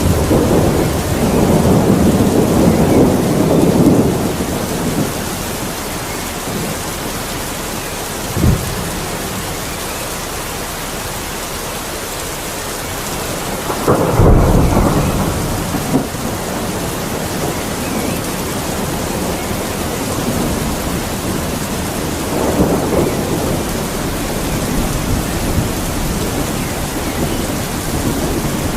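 Steady rain falling, with thunder rumbling through it: a roll in the first few seconds, a short sharp crack about eight seconds in, the loudest clap about halfway through, and softer rumbles later on.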